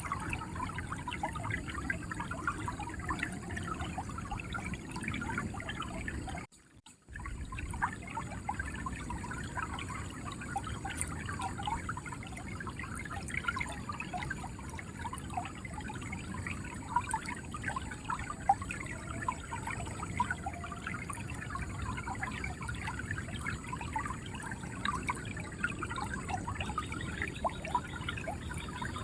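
River water flowing and gurgling steadily over stones. The sound cuts out for about half a second roughly six seconds in, then resumes.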